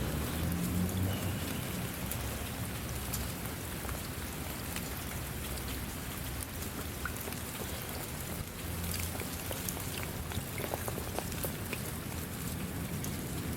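Steady rain falling, with many separate drops ticking on a surface over a low rumble.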